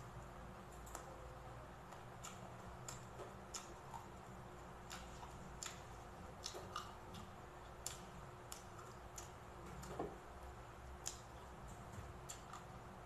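Close-miked chewing of crispy fried pork belly: irregular sharp crunches and wet mouth clicks, roughly one every half second to second, over a faint steady hum.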